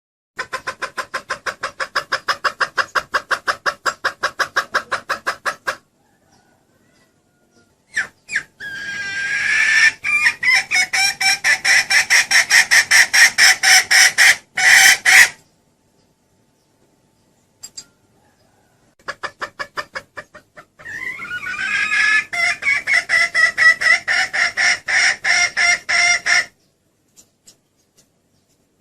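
Junglefowl hen cackling: long runs of rapid clucks, several a second, in three bouts separated by silence.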